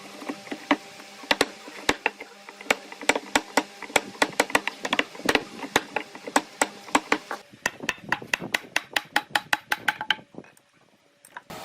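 Rapid sharp knocks of a tool striking wood, about three to four a second, stopping about ten seconds in.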